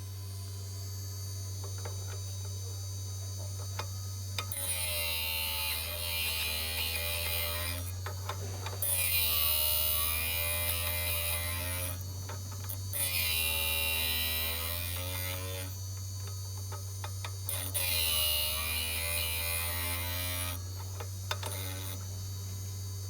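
Cutter grinder motor humming steadily, with four bouts of grinding, each about three seconds long, as a carbide end mill is passed against the wheel.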